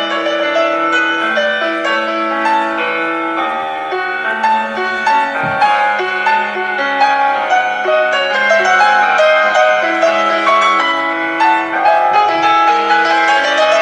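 Classical piano music, a flowing melody over sustained accompanying notes.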